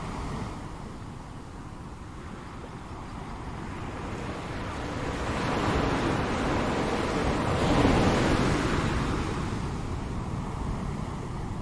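Ocean surf: waves breaking and washing in a continuous roar, swelling to peaks about six and eight seconds in, with low wind rumble on the microphone.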